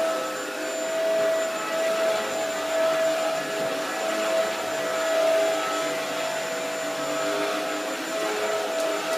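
Dyson DC07 upright vacuum cleaner running on carpet: a steady motor whine over rushing air, its loudness swelling and dipping as it is pushed back and forth.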